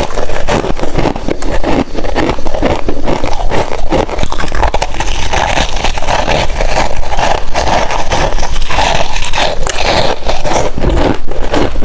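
Close-miked biting and chewing of a chunk of freezer frost, a dense, continuous run of crisp crunches and crackles.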